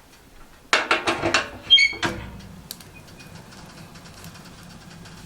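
Several sharp clattering knocks with a brief ringing squeak about a second in. Then a wood stove burning with its door open: a steady low rush of chimney draft with faint crackles.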